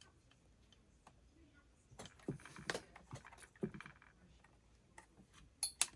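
Small chainsaw parts handled by hand on a workbench: scattered light clicks and taps, busier from about two seconds in, with a couple of sharp clicks near the end, as ignition wires are worked into a rubber grommet.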